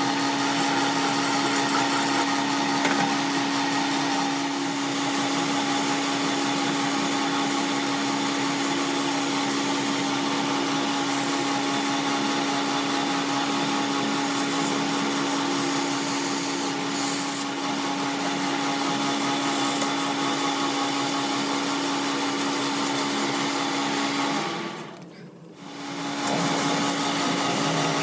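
A power tool or workshop machine running steadily, with a constant hum under a dense grinding-like noise. Near the end it briefly drops away and then comes back.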